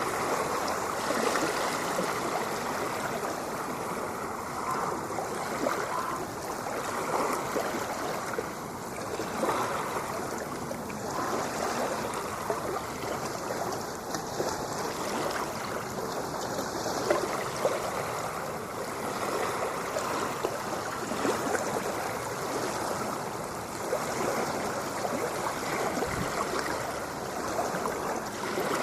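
Steady rushing, gurgling sea water, continuous with no distinct wave crashes standing out.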